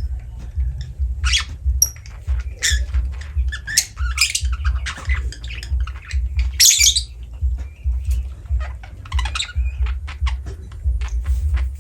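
Lovebird giving short, harsh squawks and chirps in irregular bursts, loudest a little past the middle, with small clicks in between, over a low, regular pulsing.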